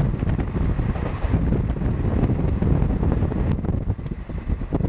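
Indian Railways train in motion: the rumble and clatter of its wheels on the rails, with wind buffeting the microphone.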